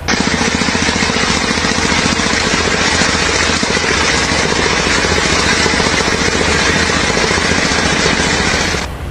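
Loud construction machinery running steadily with a fast, even pulsing, cutting off abruptly near the end.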